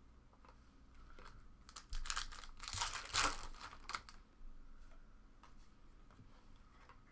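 A trading card pack's plastic wrapper crinkling and tearing as it is handled and opened, in a burst of rustles about two to four seconds in.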